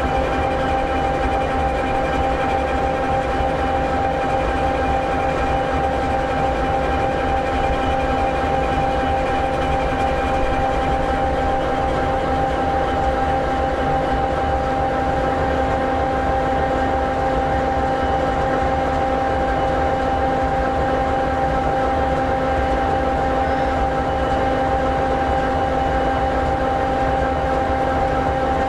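EMD 16-710G3B turbocharged two-stroke V16 diesel in an SD60E locomotive idling steadily: a constant low rumble with several steady whining tones over it.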